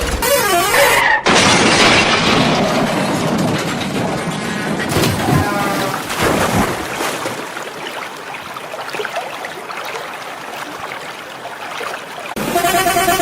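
Loose sand rushing and clattering as it is dumped, with heavy machinery running underneath. The noise cuts off abruptly about a second in and changes again near the end.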